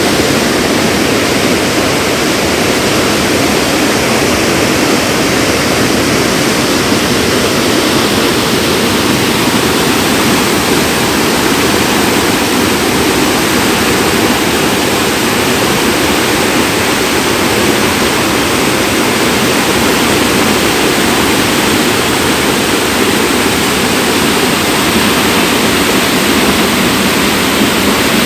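A river in flood after heavy rain, its full current of water rushing loudly and steadily without a break.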